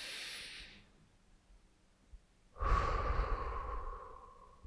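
A person taking a slow deep breath: the end of an inhale, then about two and a half seconds in a long exhale that fades away over nearly two seconds.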